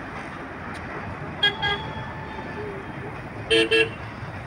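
A passing train rumbling along the track, with a vehicle horn giving two short double toots, the first about one and a half seconds in and a louder pair about three and a half seconds in.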